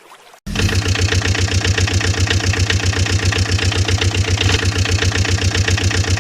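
Vehicle engine idling with a fast, even chugging, as a cartoon sound effect that cuts in abruptly about half a second in.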